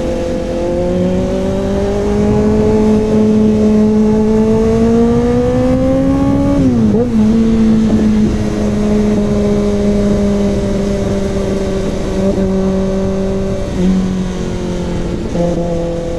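Kawasaki ZX6R inline-four with an SC Project CRT exhaust pulling through the revs. The pitch climbs for several seconds, drops sharply at an upshift about seven seconds in, then holds steady with small dips near the end.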